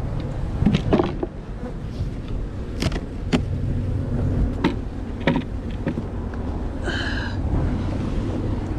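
Scattered clicks and knocks of wooden hive boxes, frames and a hive tool being handled during a hive inspection, over a steady low rumble, with one short squeak about seven seconds in.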